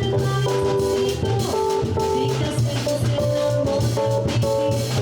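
Jazz band playing an instrumental passage: guitar over bass and drum kit, with a steady beat.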